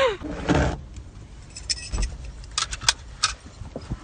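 Rustling and a scatter of sharp metallic clicks and jingles as a person climbs into a small helicopter's cockpit seat and settles in.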